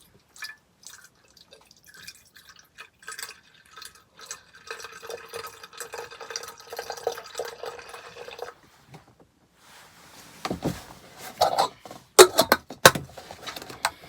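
Liquid poured into a bowl for about four seconds, after some scattered light clicks, followed by several sharp clinks near the end.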